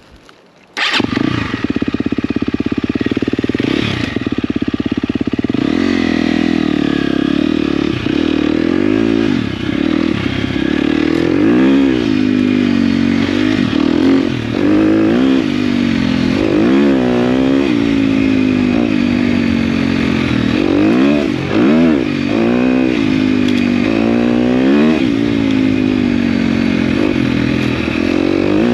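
Dirt bike engine being ridden along a trail, starting abruptly about a second in, its pitch rising and falling over and over as the throttle opens and closes.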